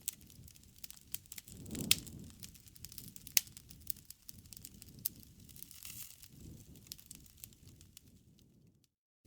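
Wood fire crackling: irregular sharp pops and snaps over a low rustle of burning wood, the loudest pops about two and three and a half seconds in. It cuts out completely just before the end.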